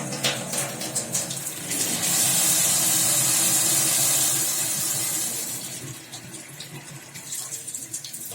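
Water running from a tap through a freshly cleaned and reassembled ceramic disc cartridge, turned on for a test: a steady rush of water that grows louder about two seconds in and eases off after about five seconds. The cartridge runs without humming or squealing: the repair has cured its noise.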